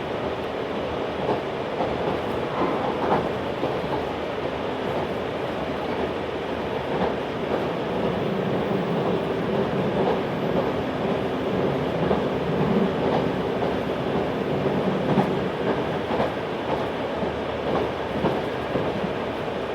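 Running noise heard inside a JR 383 series tilting electric limited express: a steady rumble of wheels on rail with scattered clacks from rail joints. Through the middle a faint wavering tone rides over the rumble.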